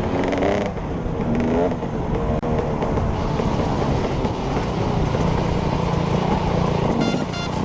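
Off-road motorcycle engine running under load, its pitch rising twice in the first two seconds as it revs up.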